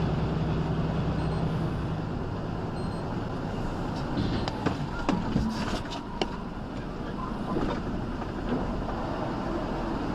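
Road and engine noise from a moving vehicle, recorded by a dashcam, with several sharp knocks about halfway through.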